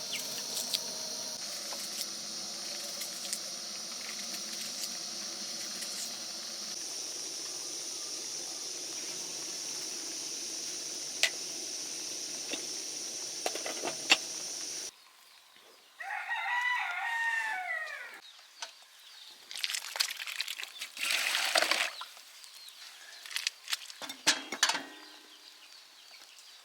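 A steady high chirring background for about fifteen seconds, then, after an abrupt cut, a rooster crows once for about two seconds, followed by scattered knocks and rustling.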